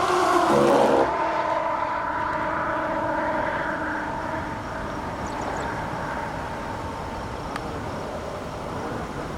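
Car engine and road noise while driving: the engine's pitch drops sharply about half a second in, then it runs on steadily, easing off a little.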